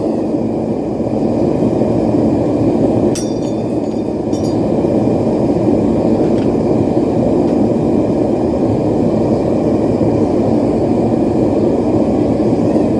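Propane forge burner running steadily and loud. A few light metallic clinks ring out near the start, about 3 and 4 seconds in, and faintly near 6 seconds.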